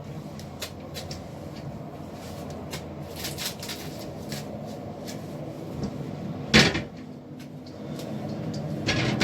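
Scattered knocks and bumps of furniture being handled and climbed on, with one loud bang about six and a half seconds in and more knocks near the end.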